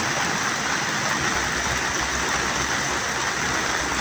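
Steady, even rush of water from heavy rain and floodwater, with no breaks.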